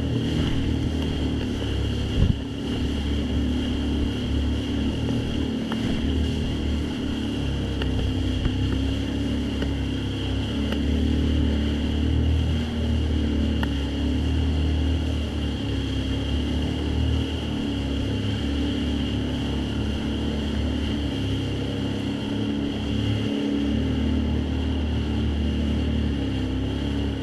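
Jet ski engine running steadily as the watercraft motors along, with water and wind noise. A single sharp knock about two seconds in.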